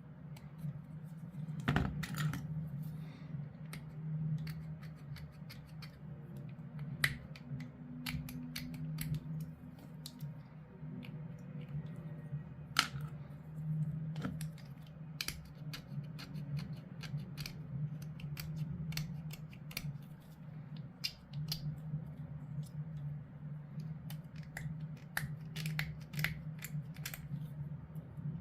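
Scattered sharp clicks and snips of small hard-plastic model kit parts being handled and push-fitted together, over a steady low hum.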